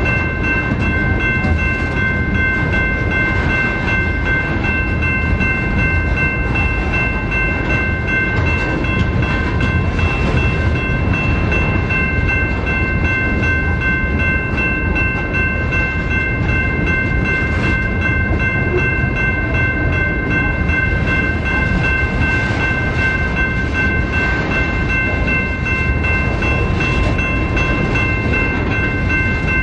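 BNSF freight train rolling past: a loud, steady rumble of railcars on the track, with a steady high-pitched whine held throughout.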